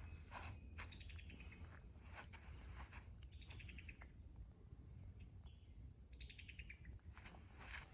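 Faint outdoor ambience: a steady high-pitched insect drone. A bird repeats a short descending trill three times, a few seconds apart.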